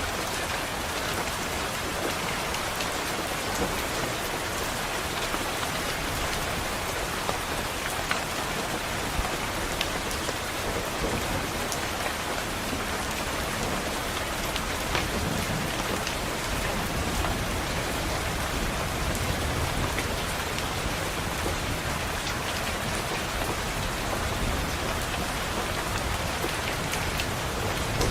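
Steady rain pattering on window glass, with scattered drops ticking. A low rumble of thunder rises from about halfway through.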